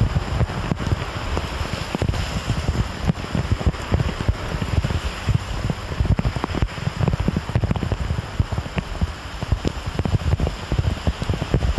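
Heavy rain pouring down, with wind buffeting the microphone in frequent irregular thumps.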